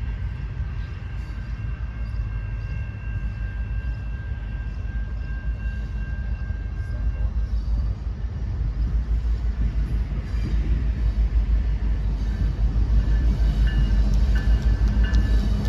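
A train rolling past, a continuous low rumble that grows louder and more rhythmic about halfway through. Thin, steady high-pitched tones, typical of wheel squeal, sound over it in the first half and return near the end.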